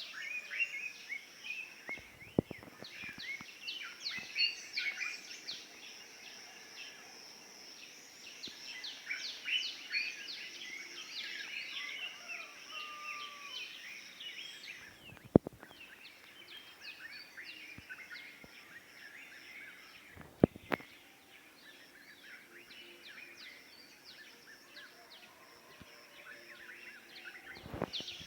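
Morning dawn chorus: many birds chirping and calling at once. A steady high-pitched buzz runs beneath them through the first half. A few sharp knocks cut through, the loudest about 15 and 20 seconds in.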